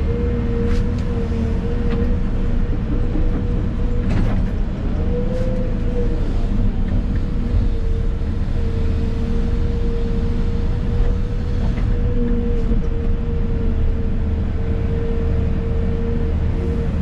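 Excavator's diesel engine and hydraulics running steadily, heard from inside the cab: a low drone with a steady high whine over it, and a few sharp clanks.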